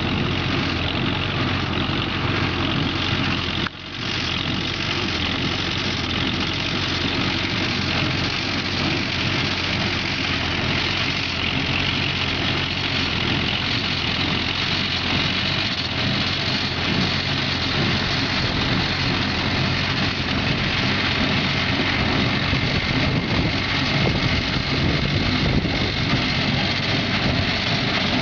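Minneapolis-Moline ZAU tractor engine running steadily while pulling an Allis-Chalmers hay baler, engine and baler machinery blending into one continuous noise. The sound drops out for a split second about four seconds in.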